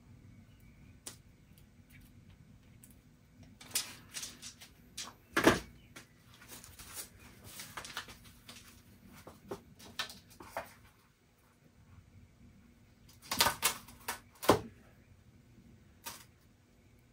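Hand handling and fitting of small plastic parts: scattered clicks, taps and knocks, the loudest one about five seconds in and a quick cluster of knocks near the end.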